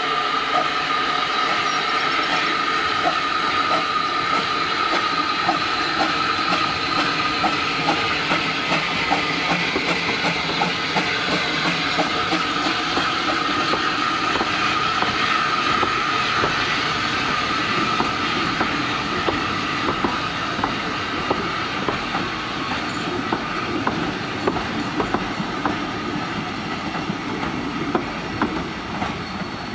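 Narrow-gauge train running steadily, its wheels clicking over the rail joints, with a steady high-pitched whine that fades about two-thirds of the way through.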